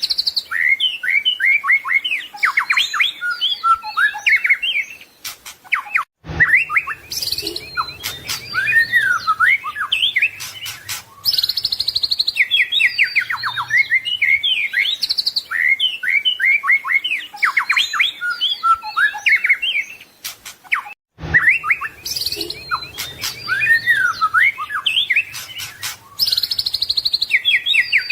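White-rumped shama (murai batu) singing a fast, varied song of whistles, trills and chirps, full of imitated calls. The song breaks off suddenly for an instant about six seconds in and again about 21 seconds in, then runs on in a repeating loop.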